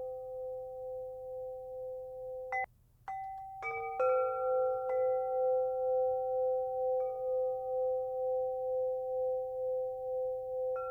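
Meditation music of ringing, singing-bowl-like tones: a low tone held under a higher one, with the loudness wavering slowly, and new chime strikes entering several times, most of them between about two and a half and five seconds in. The sound cuts out briefly just before the three-second mark.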